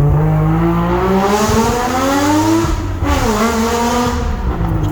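Mazda RX-8's twin-rotor Renesis rotary engine accelerating. Its note rises steadily for nearly three seconds, breaks off briefly at a gear change, then climbs again before easing off near the end.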